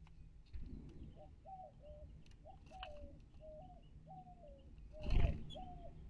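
A bird calling in a run of short, low two-part notes, each stepping up then dropping, about two a second. About five seconds in comes one brief loud flurry as the finches take off from the feeder tray.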